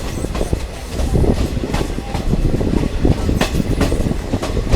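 Diesel multiple unit train running along the track, heard from inside the coach: a continuous low rumble with irregular clicks and knocks from the wheels.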